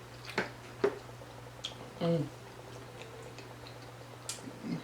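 Eating sounds at a table: a few sharp clicks and taps, with a short hummed 'mm' falling in pitch about two seconds in. A steady low electrical hum runs underneath.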